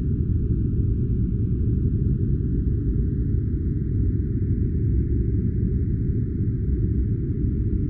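Steady, unchanging noise-machine sound, deep and dull, with nearly all of it in the low range and almost nothing high. It is a filtered white-noise track for sleep or study.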